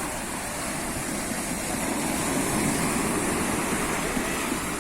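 Mediterranean sea waves breaking and washing onto the shore: a steady rushing surf that swells a little midway.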